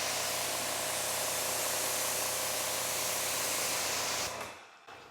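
Water spraying steadily onto a car's coated paint as the panel is rinsed to check how the water flows over it, shutting off a little over four seconds in.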